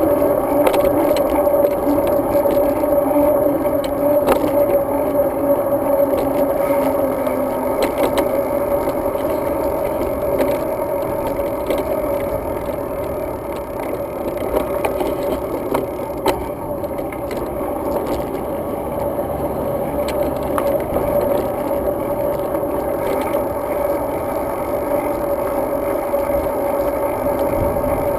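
Road bicycle rolling along at a steady pace: continuous tyre and wind rumble, with rattling and scattered small clicks from the bike and its mounted action camera.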